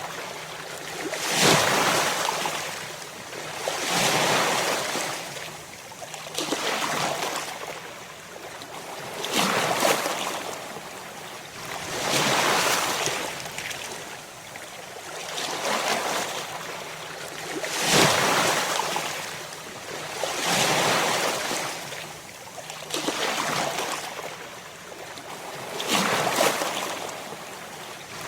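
Ocean waves crashing, one surge of surf about every two and a half seconds, each swelling up and falling away.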